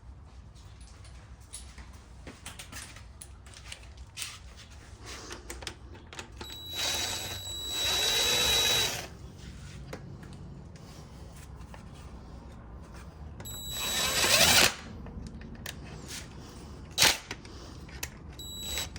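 Power drill running in spurts with a steady high whine: about two seconds, then about a second, then briefly near the end, as it drives bolts home. Small handling clicks throughout and one sharp knock between the spurts.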